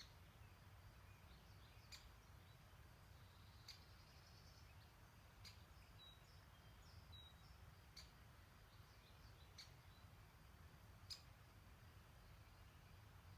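Faint birdsong: a short, sharp, high call repeated about every one and a half to two seconds, with a few softer chirps in between. A faint low rumble runs underneath.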